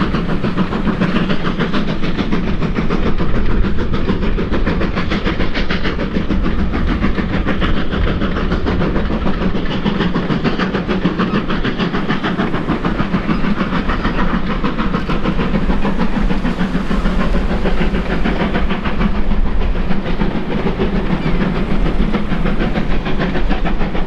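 Steam locomotive working a train, a steady, loud run of exhaust and hiss mixed with the clatter of wheels on rail.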